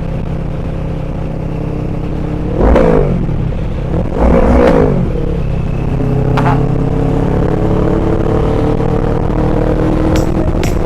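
CFMoto MT650 parallel-twin engine through a YRS full titanium exhaust with the dB killer removed, running open-piped. It is revved twice, about 3 and 4.5 seconds in, each rev rising and falling in pitch, then pulls under steady acceleration with its pitch slowly rising.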